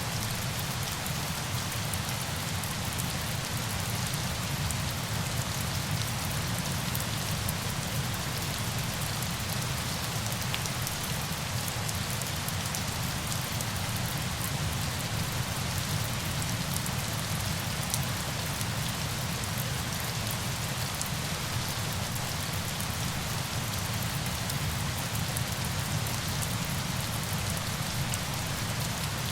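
Steady rain falling: an even hiss with scattered small drop ticks, over a steady low rumble.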